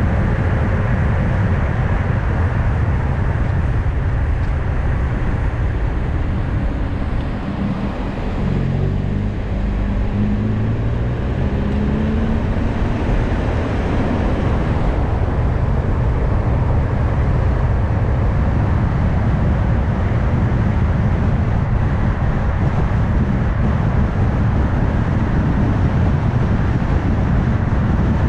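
Car driving on a road: a steady low tyre and road rumble that eases a little about a third of the way in, followed by the engine note rising as the car speeds up again.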